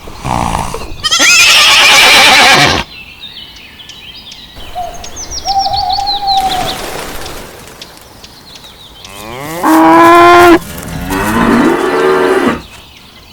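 Cattle mooing in several separate calls, the loudest about a second in and again near ten seconds in, with faint high chirps between them.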